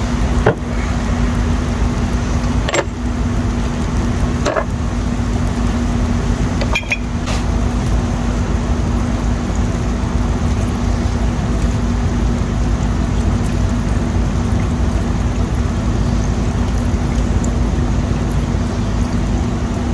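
A steady mechanical hum with a constant low tone and a deep rumble underneath. Five sharp clinks of metal transmission parts being handled and set down come in the first seven seconds.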